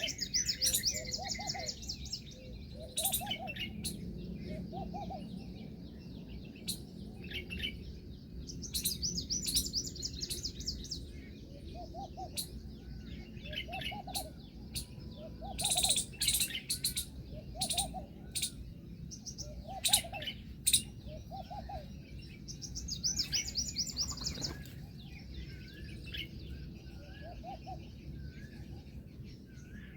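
Birds calling: a short low note repeats about once a second, and bursts of fast, high trilling come three times, with sharp clicks scattered between them.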